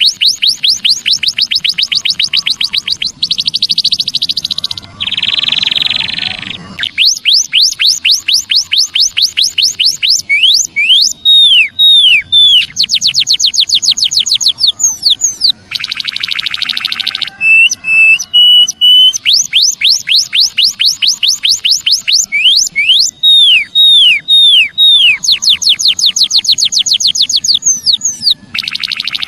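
Recorded emprit kaji (white-headed munia) song played loud as a lure: fast trains of high, sharply falling notes, about seven a second, broken by harsh buzzy bursts and a few slower falling whistles.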